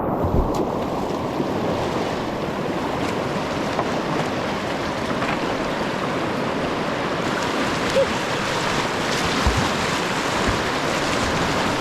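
Steady rushing of white water in a river rapid, with a few dull knocks now and then, close to the kayak.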